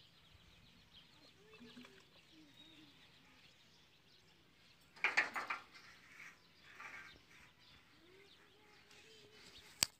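Birds calling faintly, with a louder burst of short chirp-like strokes about five seconds in and a single sharp click just before the end.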